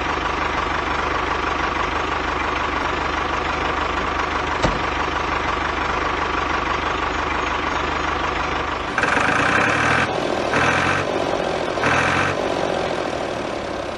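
Mini tractor model running with a steady, idling-like engine drone, broken by three short louder surges in the last few seconds.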